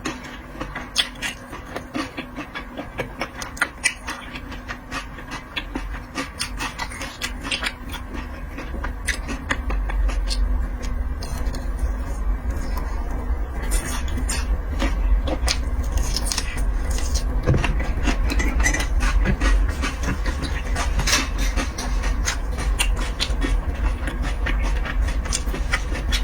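Close-up eating sounds: chewing with many small clicks and crackles. A low, steady rumble sets in about ten seconds in and continues under the chewing.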